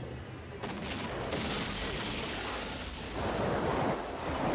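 Soundtrack effects of a heavy attack, blasts and explosions. A rushing noise swells about a second in, followed by two louder explosive surges in the second half.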